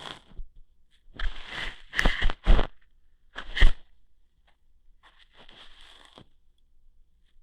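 Close-up ASMR ear-hair plucking sounds: irregular short bursts of scratchy crackling and rustling, with a few sharp snaps in the middle, quieter strokes later on.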